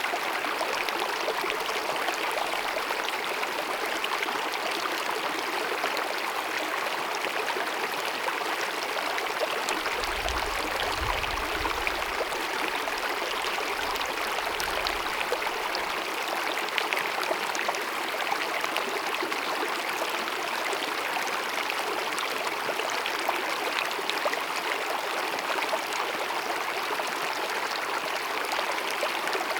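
Glacier-fed mountain meadow stream babbling and cascading steadily. A low rumble joins for a few seconds near the middle.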